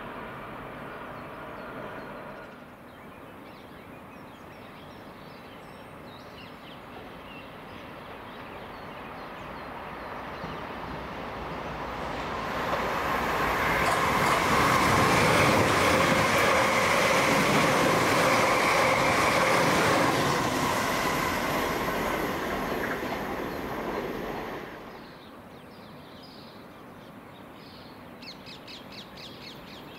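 South Western Railway Desiro electric multiple unit approaching and passing at speed. Its sound builds over several seconds to a steady whine over wheel and rail noise, then cuts off abruptly about three-quarters of the way through. In the first two seconds a train sound is heard that cuts off abruptly.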